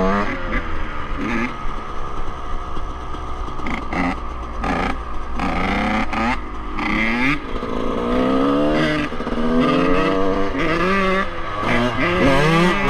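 Two-stroke dirt bike engine revving hard, its pitch climbing and dropping several times as the throttle is opened and closed.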